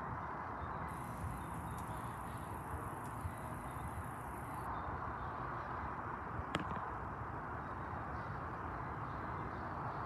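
Freight train of covered hopper cars on the move along the siding: a steady rumble of steel wheels on rail, with a thin high hiss for a few seconds near the start and one sharp metallic clank about six and a half seconds in.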